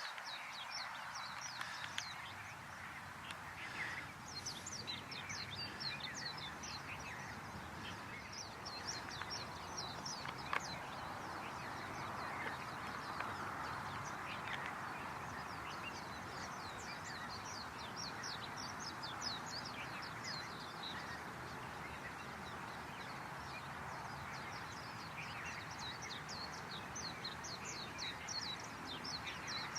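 Many small birds chirping, a dense chorus of short, high, downward-sweeping chirps that goes on throughout over a steady background hiss.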